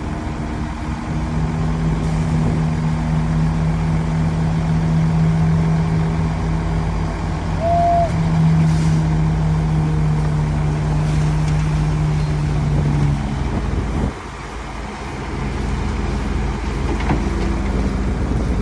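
Heavy diesel earthmoving machinery running with a steady engine hum over a low rumble. A brief higher-pitched tone sounds about eight seconds in. The engine hum drops away and the sound gets quieter about fourteen seconds in.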